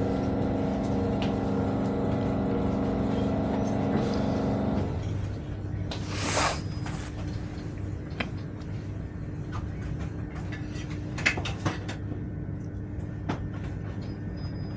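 Heathrow Express electric train running, heard from inside the carriage: a steady multi-tone motor drone cuts off about five seconds in, leaving a low rumble and a steady hum. A brief hiss comes about a second and a half later, with scattered clicks and knocks through the rest.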